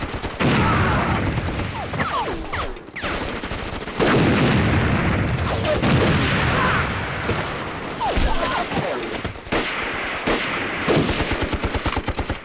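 Continuous battle gunfire: dense overlapping rifle shots and machine-gun fire, with rapid, even machine-gun bursts near the end.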